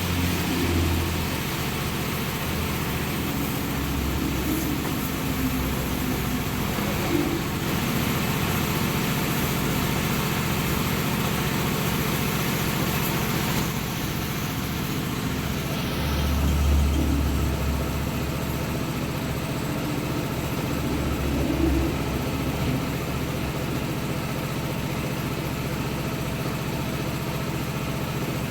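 A motor running steadily at a low pitch, swelling briefly a few times, with a steady hiss over it.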